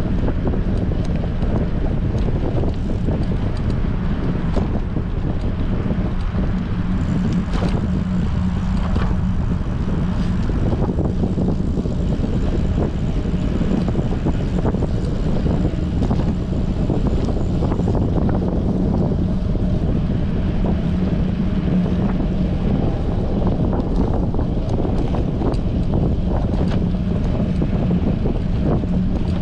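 Strong wind buffeting a GoPro's microphone while cycling at speed, a steady rushing noise with a low hum underneath.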